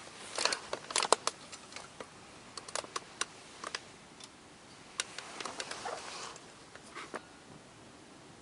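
Light clicks, taps and rustling of small objects being handled, in two flurries: about a second in and again around five to six seconds in.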